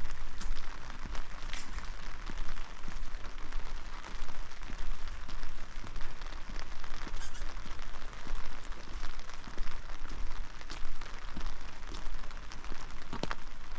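Steady rain falling, with many sharp drop ticks close to the microphone.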